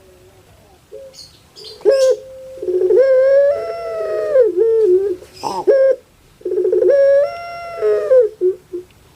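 Puter pelung (domesticated ringneck dove, Streptopelia risoria) cooing its long song: two drawn-out calls, each opening with a rapid rattling trill, rising to a held note, then falling and breaking up at the end. A few short sharp notes come between them.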